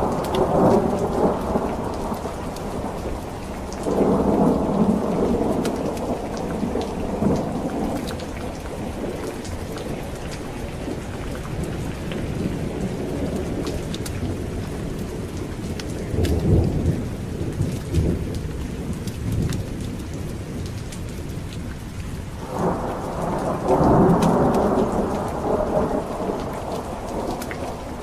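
Steady heavy rain with rolls of thunder coming and going: a rumble at the start, another about four seconds in, a deeper one about sixteen seconds in, and a loud one from about twenty-three seconds that fades near the end.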